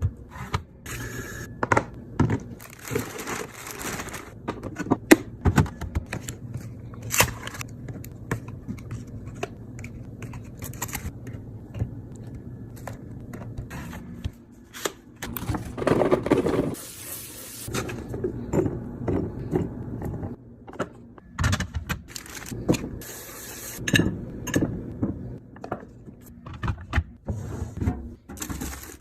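Containers, bottles and packaging being handled and set down while a fridge is restocked: irregular knocks, clicks and scraping, with a longer, louder rustle about sixteen seconds in.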